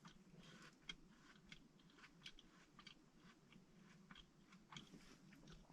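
Near silence, with faint irregular small clicks and crunches scattered through it.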